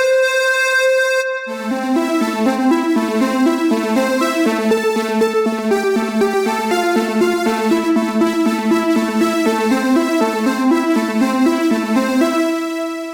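Roland System 8 synthesizer presets being auditioned. A held note ends about a second and a half in, then a new bright patch plays a fast, rhythmic pattern of repeating notes, like an arpeggio, which stops shortly before the end.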